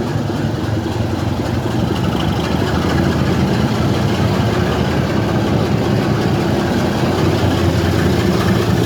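Heritage railway train running along the line: a steady engine rumble that grows a little louder over the first few seconds. Wind buffets the phone's microphone throughout.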